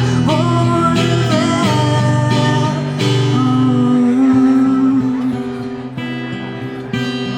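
Acoustic guitar strummed and picked in an instrumental passage of a live ballad, getting softer about five seconds in.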